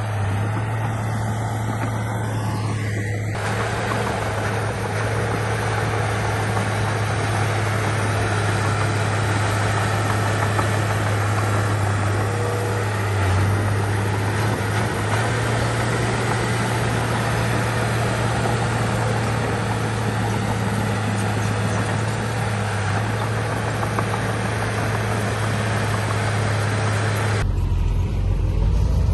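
Heavy diesel earthmoving machinery running steadily with a constant low engine hum under broad mechanical noise. The sound changes abruptly about 27 seconds in.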